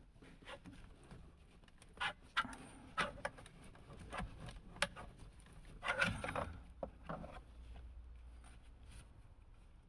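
Scattered plastic clicks, knocks and rattles of hands prying the EWS anti-theft control module of a BMW E36 off its retaining clip, with a busier flurry of handling about six seconds in.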